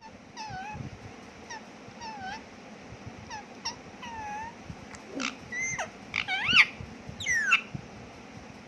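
Pet parrot calling in a series of short whistled notes that bend up and down in pitch, spaced out at first. About five seconds in, louder calls follow, ending in a few steeply falling ones.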